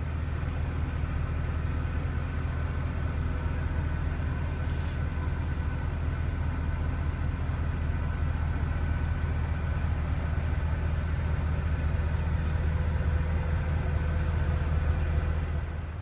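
Mercedes C63 AMG Black Series V8 engine idling steadily, a low even hum.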